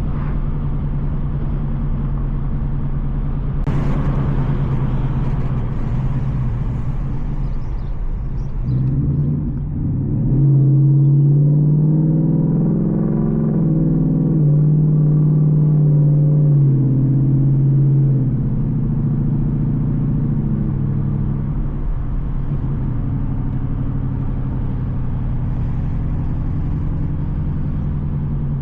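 Straight-piped Ford Mustang GT 5.0 V8 exhaust rumbling while driving, louder for several seconds in the middle under more throttle. A sudden burst of hiss about four seconds in fades away over a few seconds.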